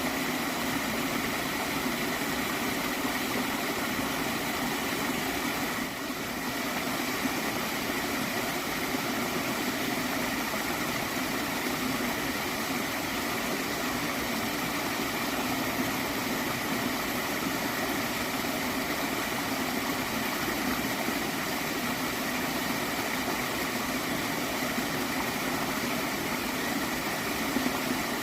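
Water in a gently flowing stream gurgling steadily.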